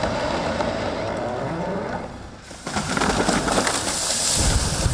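A 200-foot redwood falling: after a brief lull about halfway in, a loud crash of the trunk and branches coming down, ending in a heavy thud as it hits the ground near the end.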